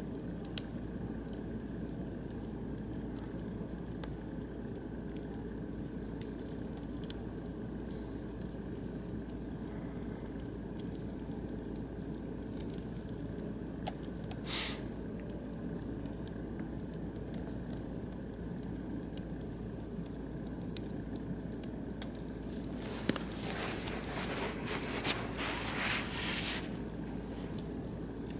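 Oak and beech wood fire burning in a barbecue grill, with a steady low rush and scattered sharp crackles and pops. A brief louder burst comes about halfway, and a run of louder crackling fills the last few seconds.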